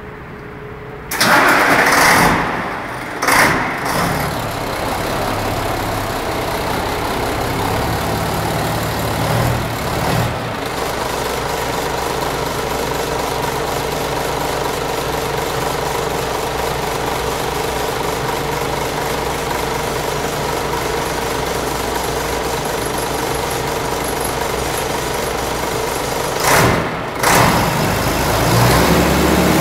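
Scania 112 truck's 11-litre inline-six diesel starting about a second in, on its first start after the injection pump and injectors were rebuilt, then running at a steady idle. Near the end come two short, louder bursts.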